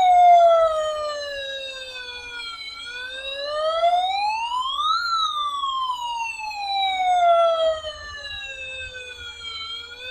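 A siren wailing in slow sweeps: its pitch falls, climbs to a high peak about five seconds in, falls again, then starts rising near the end.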